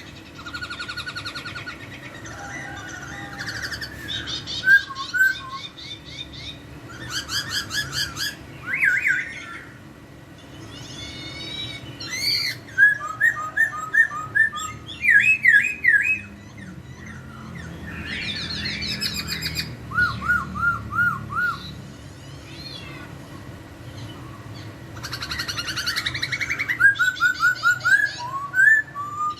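Laughingthrush (poksay) singing loudly in bursts: clear whistled phrases, rapid repeated notes and fast trills, with short pauses between them.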